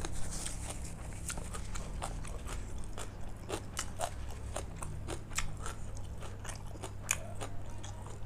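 Close-miked chewing and crunching of food: many irregular small crunches and clicks. A steady low hum runs underneath.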